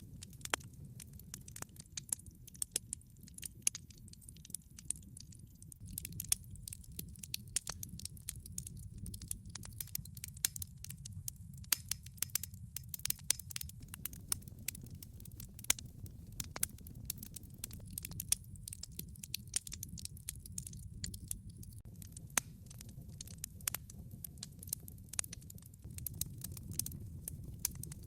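Log fire crackling: a steady low rumble of burning wood with a dense, irregular stream of sharp pops and snaps.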